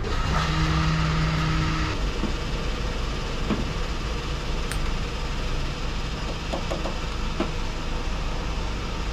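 Scania 770S truck's 16-litre V8 diesel running steadily under way, with a constant low rumble and road noise. A steady tone sounds for about a second and a half near the start, and a few light clicks come later.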